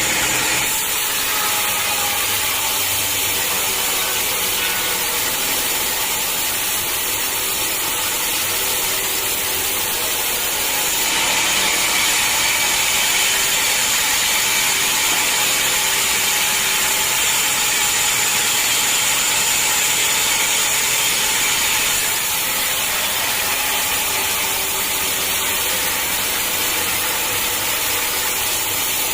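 Sawmill saw cutting lengthwise through a hard acacia log, a steady grinding run of blade and machinery that grows a little louder for about ten seconds in the middle.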